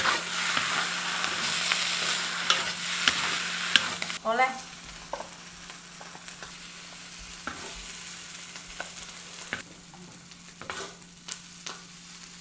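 Diruan (Nostoc commune) bun filling stir-frying in lard in a wok, sizzling loudly while a spatula stirs and clicks against the pan. The sizzle drops off sharply about four seconds in, leaving fainter sizzling and occasional spatula scrapes and taps.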